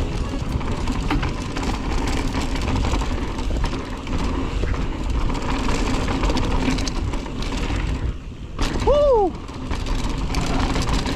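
Ibis Ripmo AF mountain bike being ridden on a dirt trail: a steady rumble of tyres and wind on the microphone, with rattles and clicks from the bike. Near the end the noise dips briefly and a short call rises and falls in pitch.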